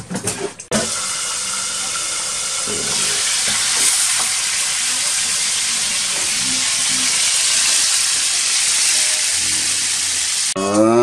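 Birds (white-breasted waterhens and munias) frying in hot oil, with a loud, steady sizzle. The sizzle starts abruptly a little under a second in and stops suddenly near the end.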